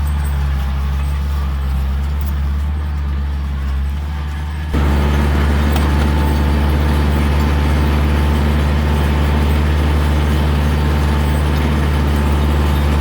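Kioti tractor's diesel engine running steadily with a deep, even drone; it jumps suddenly louder about five seconds in.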